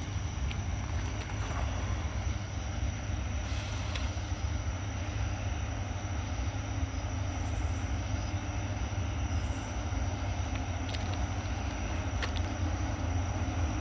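Freight train drawn by diesel-electric locomotives approaching and passing at low speed: a steady low rumble with a few faint clicks.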